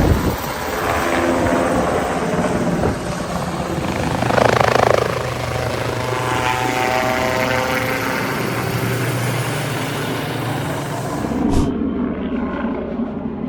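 Helicopter running, a steady mix of rotor and engine noise, swelling louder briefly about four and a half seconds in. The sound changes abruptly about eleven and a half seconds in, at a cut to a duller, muffled recording.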